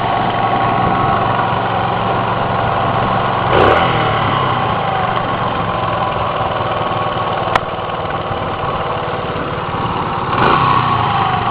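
Dirt bike engine idling steadily, with a sharp click about seven and a half seconds in.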